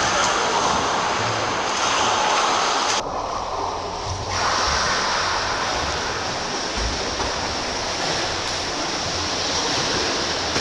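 Steady wash of splashing water in a swimming pool as a swimmer swims, briefly muffled about three seconds in.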